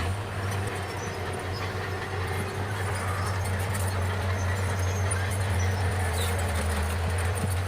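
Bulldozer's diesel engine running steadily with a deep, even drone, growing slightly louder a few seconds in.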